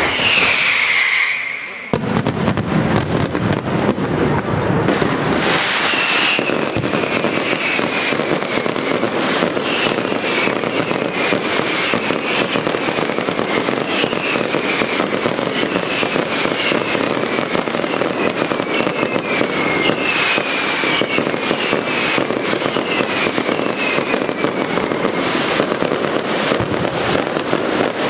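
Daylight fireworks going off in a dense, continuous barrage of rapid bangs and crackling, with a string of short falling whistles over it. The barrage drops off briefly about two seconds in, then resumes at full density.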